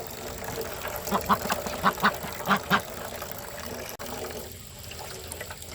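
A run of about six short, sharp animal calls in quick pairs over the first three seconds, then only a quieter steady background.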